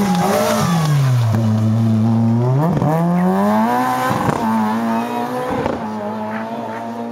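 Rally car engine taking a hairpin: the revs fall as it slows, then climb sharply as it accelerates away, with a few sharp cracks along the way. The sound fades near the end as the car drives off.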